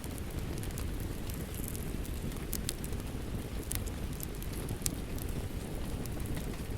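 Steady rain with a wood fire crackling, a few sharp pops standing out near the middle.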